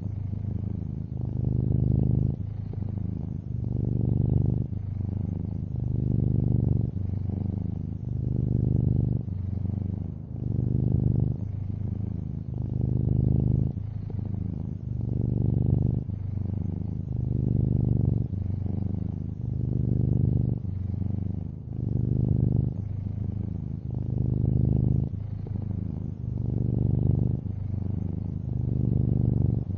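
Long-haired orange tabby cat purring steadily: a low rumble that swells and eases with each breath, about once every two seconds.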